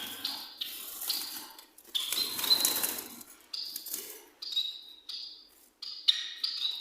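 White Java sparrows giving short, sharp, metallic chirping calls, several a second, with a rustling noise about two seconds in.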